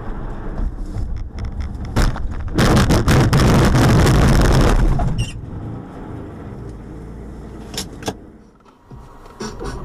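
A car crash heard from inside the car: a sharp bang about two seconds in, then about two and a half seconds of loud scraping, crunching noise, with a couple of sharp knocks near the end over the car's running engine.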